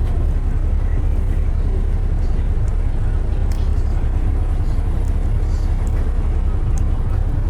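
Steady low road rumble of city traffic, with a few faint ticks over it.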